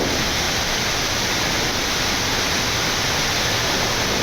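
Steady rushing flight-deck noise of a Boeing 787-9 climbing out just after takeoff.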